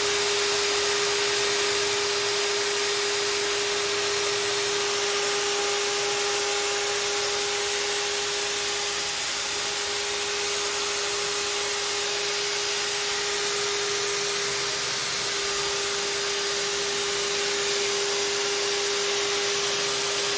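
Core drill running steadily, a constant motor whine over a rushing noise.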